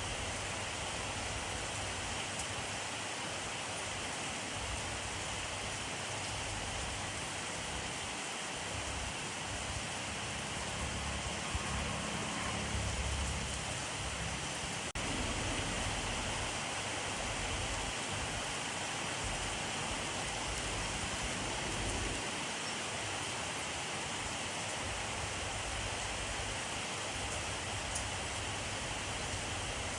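Steady rainfall, an even hiss of rain on surfaces, with a low rumble swelling briefly about halfway through.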